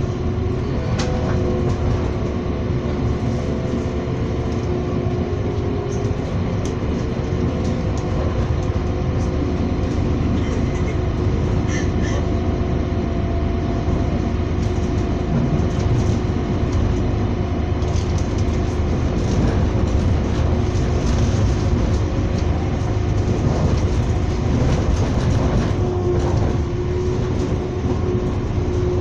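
A train running at speed, heard from aboard: a steady rumble with a held hum and scattered clicks and knocks from the wheels and carriage.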